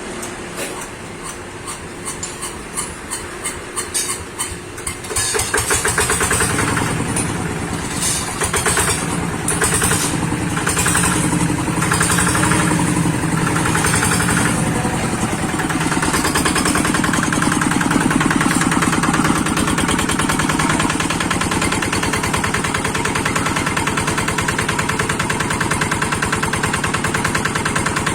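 Quick G1000 Boxer hand tractor's engine starting: uneven chugs for the first few seconds, then it catches about five seconds in and runs steadily, its speed wavering for a while before it settles.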